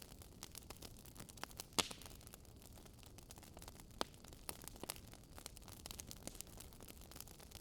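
Wood fire crackling softly: irregular pops and snaps over a faint hiss, with the sharpest pops just under two seconds and four seconds in.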